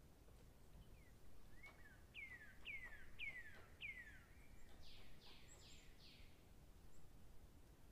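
Faint bird song over near silence: a run of about five quick notes, each falling in pitch, roughly two a second, then four higher, rougher notes.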